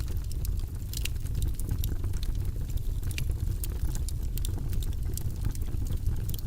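Wood logs burning in a fireplace, crackling and popping several times a second over a steady low rumble.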